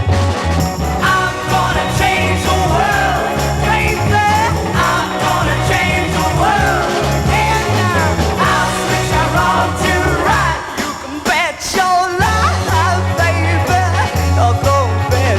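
1960s garage rock band recording in a stretch without words: steady bass notes under a wavering lead line. The bass drops out briefly about eleven seconds in, then comes back.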